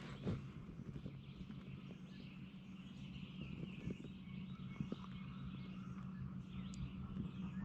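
Outdoor woods ambience with faint songbirds calling, over a steady low hum.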